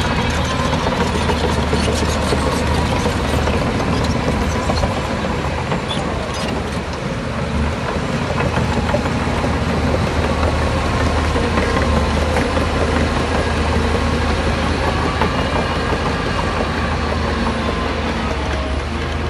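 Heavy diesel earthmoving machinery running steadily under load, with a deep continuous engine hum and a few metallic clanks.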